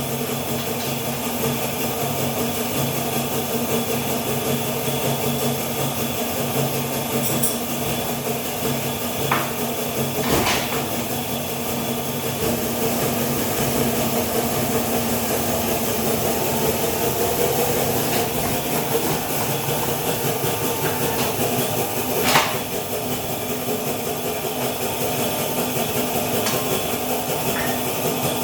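Old mandrel tube bender running as it bends a 54 mm stainless exhaust tube: a steady, noisy machine hum with a few sharp knocks, the loudest about three-quarters of the way through.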